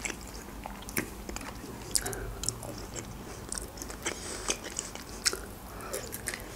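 Close-miked mouth sounds of a person eating Georgian khinkali dumplings: chewing with irregular small clicks, and a bite into a dumpling near the end.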